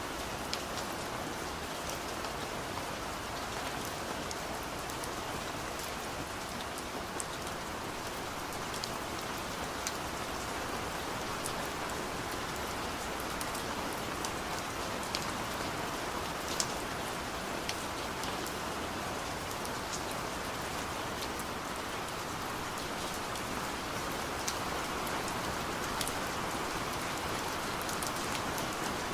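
Steady rain on a car, heard from inside the cabin: an even rushing hiss with scattered sharp ticks of single drops striking the body and glass.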